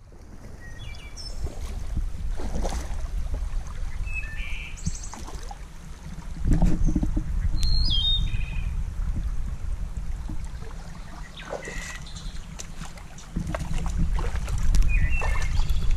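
Small birds chirping in short calls, a handful of times, over a steady low rumble.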